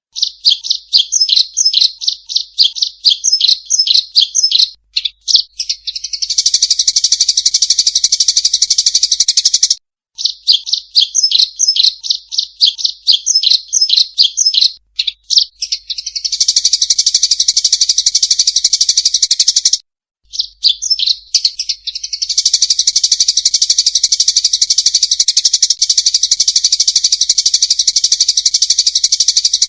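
Eurasian tree sparrows' fighting calls: quick series of sharp, high chirps running into long, fast buzzing chatter. The recording repeats about every ten seconds, with a short silent break before each repeat.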